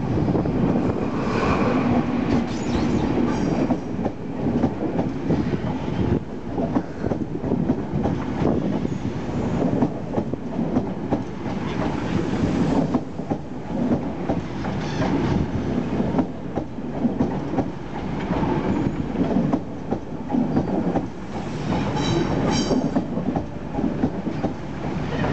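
An East Midlands Trains InterCity 125 High Speed Train rolling slowly past along a platform: the Class 43 diesel power car passes first, then the Mark 3 coaches, their wheels clicking over rail joints. Two short, high wheel squeals near the end.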